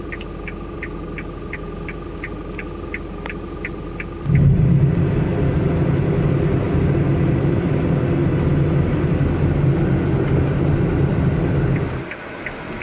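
Car cabin noise from a moving car, a low rumble, with quick even ticking about three times a second at first. About four seconds in the rumble suddenly grows much louder and stays loud until near the end, when it drops back and the ticking returns.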